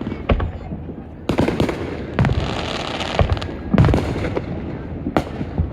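Fireworks going off: a quick series of sharp bangs and deeper booms, about seven in under six seconds. A hissing crackle sounds around the middle.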